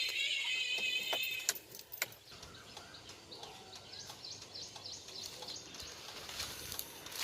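Guitar-backed music stops about a second and a half in, after a few clicks. Outdoor background noise with many small bird chirps follows.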